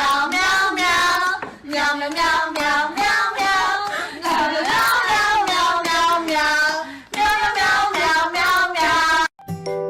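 Singing voices, one high and child-like, with hand claps keeping a steady beat. They cut off abruptly near the end.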